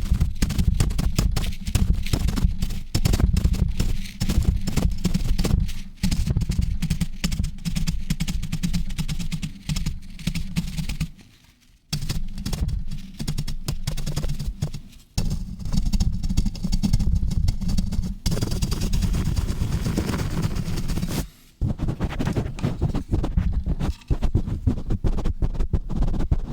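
Fast, rough handling of a microphone: heavy, rapid low thudding from the mic being pumped and rubbed, mixed with scratchy strokes, broken by a few brief pauses. About two thirds of the way through, a hissier brushing sound comes in for a few seconds.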